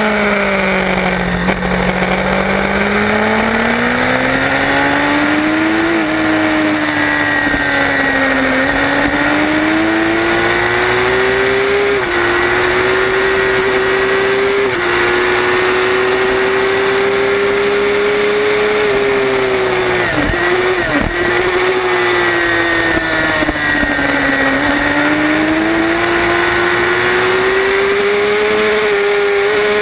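Onboard sound of a race motorcycle's engine under hard use around a track. The pitch sinks through a corner, then climbs under throttle with upshifts at about 6 and 12 seconds in. It holds high along the straight, drops with two quick downshifts about 20 seconds in, then sinks and climbs again out of the next turn.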